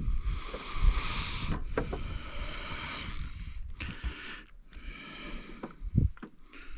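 Fishing reel running as a big carp is played, its mechanism whirring with line coming in and going out against the drag, with a few dull knocks of handling.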